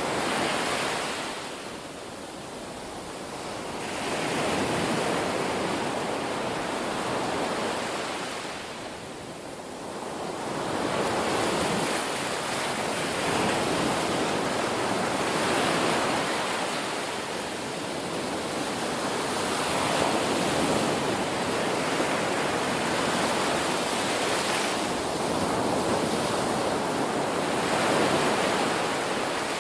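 Ocean waves breaking and washing on a shore, a continuous surf that swells and ebbs every few seconds, with quieter lulls about two and nine seconds in.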